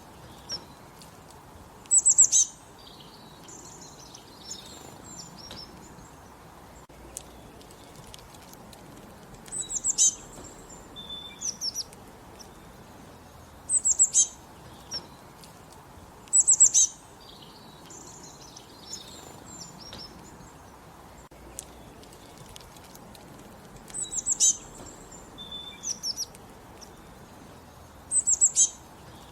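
Small songbirds singing: short, loud, high-pitched phrases of quick falling notes repeat every few seconds, about six times, with softer chirps and twitters between them.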